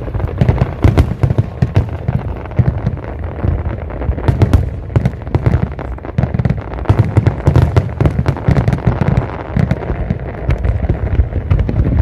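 Fireworks display: a dense, continuous barrage of bangs and booms from many shells bursting, with sharp cracks over a deep rumble.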